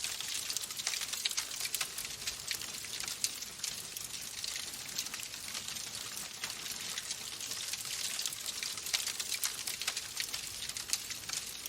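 Wood fire in a fireplace crackling: a steady hiss with frequent small pops and snaps.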